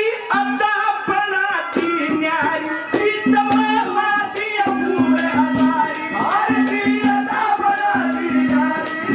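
Haryanvi folk music: a gliding melody line over rapid hand-drum strokes, with a low held note that comes and goes.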